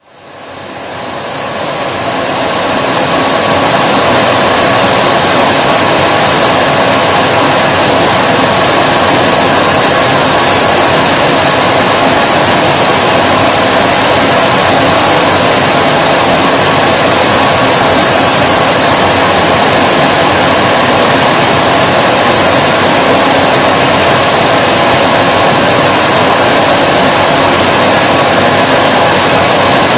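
Vacuum cleaner motor running steadily: a loud, even rushing hiss with a constant whine on top. It fades in over the first few seconds.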